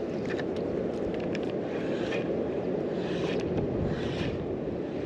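Steady wind buffeting the microphone, a low, even rumble, with a few short higher hissing swishes through it.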